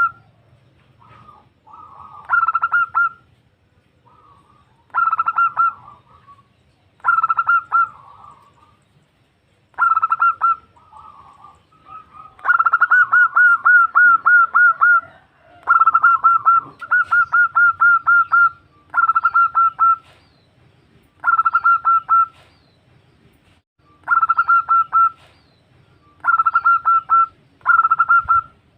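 Female zebra dove (perkutut) calling: short bursts of rapid, staccato cooing notes repeated every couple of seconds, with one longer run in the middle. This is the call a female gives to draw a male.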